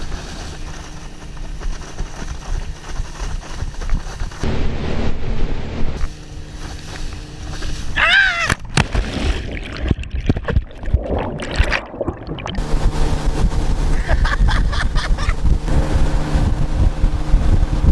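Water rushing and splashing with wind buffeting the microphone, over a towing motorboat's engine running steadily. A brief high warbling sound about eight seconds in.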